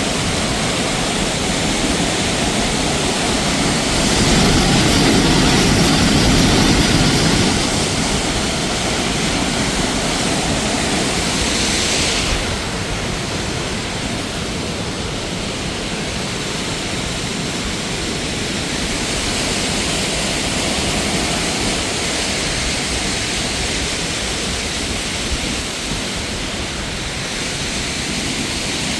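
Steady rush of falling water from a mountain stream or waterfall. It swells for a few seconds about four seconds in, and the hiss drops suddenly about twelve seconds in.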